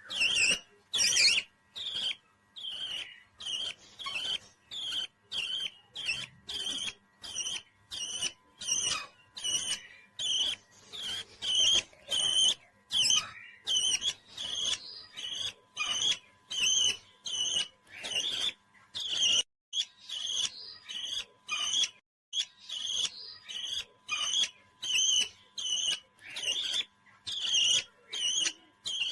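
Parrot calling in a long run of short, shrill chirps, close to two a second, broken by a couple of short pauses past the middle.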